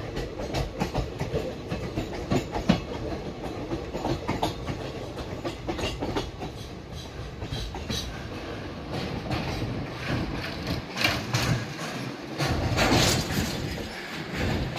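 Passenger train running along the track: a steady rumble with many irregular clicks and knocks from the wheels, briefly swelling into a louder rush of noise near the end.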